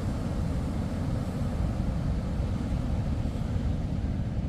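Steady low rumble of wind buffeting the microphone, with the wash of large breaking surf behind it.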